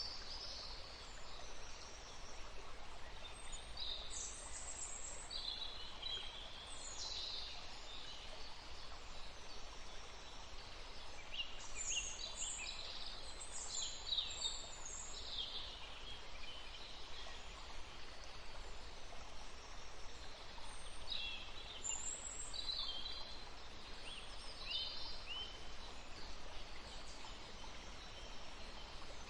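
Small birds chirping, many short high calls overlapping and scattered throughout, over a steady background noise.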